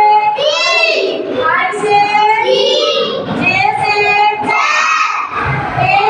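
Young children singing together in high voices, line after line with short breaks.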